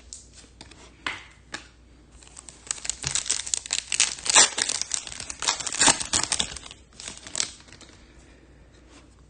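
Foil trading-card pack wrapper crinkling and crackling as it is handled, in dense irregular bursts from about two and a half seconds in until near seven and a half seconds, with a few lone crackles before.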